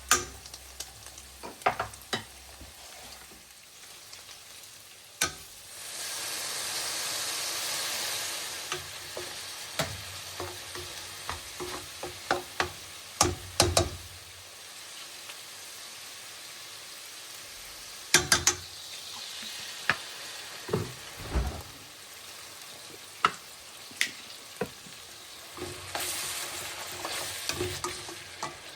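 Food frying in a pan, sizzling, while a utensil stirs it and knocks against the pan again and again. The sizzle gets louder for a couple of seconds about six seconds in, and again near the end.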